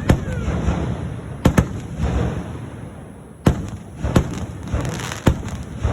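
Fireworks going off: about seven sharp bangs, the first two pairs in quick succession, each followed by crackling.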